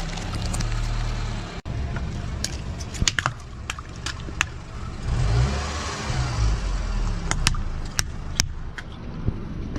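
A car engine runs low and steady as the tyres roll slowly over objects, with sharp snaps and crackles as things are crushed under the wheels. A louder rush of noise comes around five to six seconds in.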